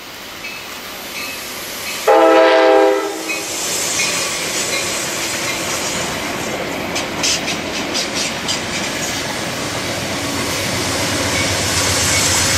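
Passenger train horn sounding one blast of over a second, then the train approaching with its running noise growing louder. A quick run of wheel clicks on the rails comes midway.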